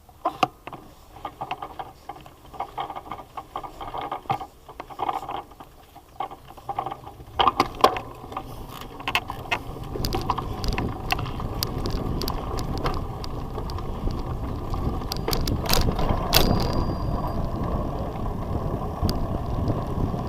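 Bicycle being ridden on a rough track, its frame and chain clicking and rattling. From about eight seconds in, a steady rush of tyre and wind noise builds up and carries on under the rattles.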